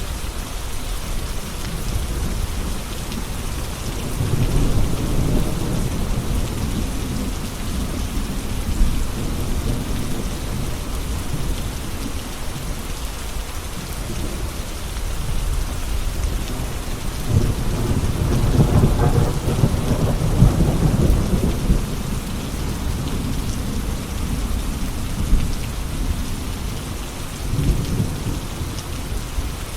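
Steady rain falling, with low rolling thunder: one rumble about four seconds in, a longer and louder one past the middle, and a short one near the end.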